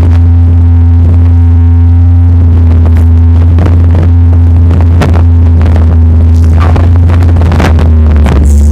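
Vehicle driving off-road, recorded heavily overloaded: a loud steady low drone with a few held hum tones over it and frequent knocks and jolts.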